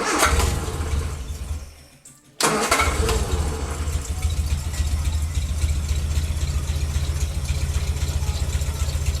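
MG Midget 1500's four-cylinder engine fires and runs briefly, dying away about two seconds in, then starts again and settles into a steady idle. It is running with newly replaced pushrods and rocker arms.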